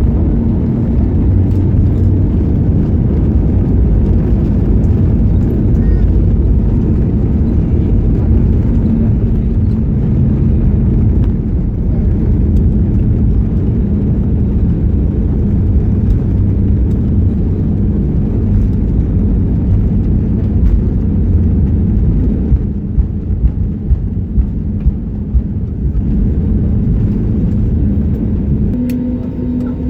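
Cabin noise inside an Airbus A320neo on its landing rollout: a loud, steady low rumble of engines and wheels on the runway with a faint hum, easing slightly after about twenty seconds. A quick run of about seven sharp knocks follows a few seconds later.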